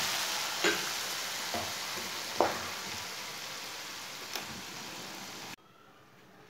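Tomato and spice masala sizzling in a frying pan, with a few light knocks, the sizzle slowly fading as the pan comes off the heat, then cutting off suddenly near the end.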